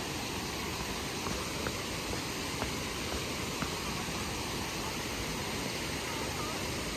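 Waterfall rushing: a steady, even roar of falling water with no break.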